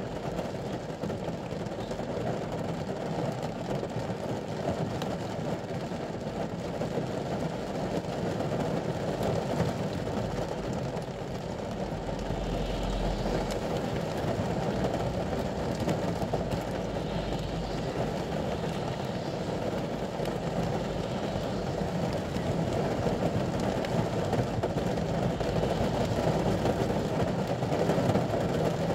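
Steady rain drumming on the ute's roof, heard from inside the cab as a dense, muffled patter that grows slightly louder toward the end. A deeper low rumble comes in for a couple of seconds about twelve seconds in.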